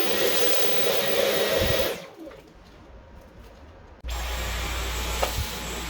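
Dyson V11 cordless stick vacuum running with a steady whoosh, then stopping about two seconds in. Two seconds later a low steady hum starts abruptly.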